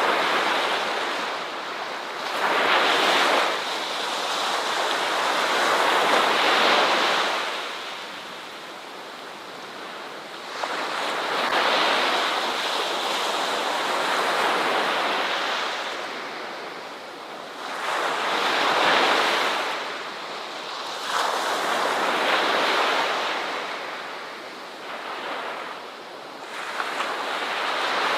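Ocean waves breaking and washing up on a beach, the surf swelling and fading again every few seconds.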